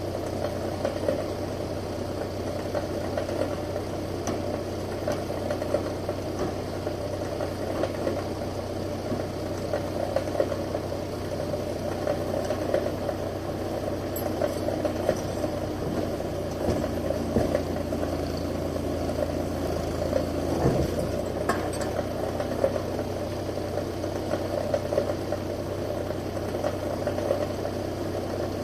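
Steyr 540 tractor engine running steadily at an even, low speed, with a clattering rattle.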